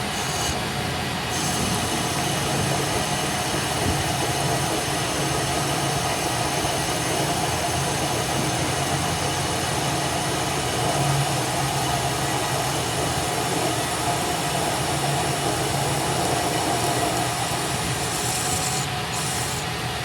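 Continuous running noise of metalworking machinery: a steady hiss across the whole range with a faint low hum underneath, unbroken throughout.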